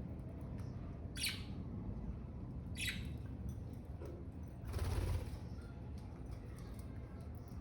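Budgerigar (budgie) calls: two short, high chirps about a second and a half apart, followed around five seconds in by a brief rustling burst.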